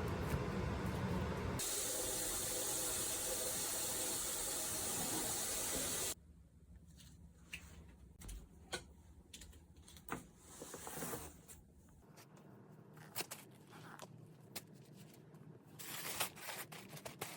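Running water, a steady rush that stops abruptly about six seconds in; after that only faint scattered clicks and light knocks.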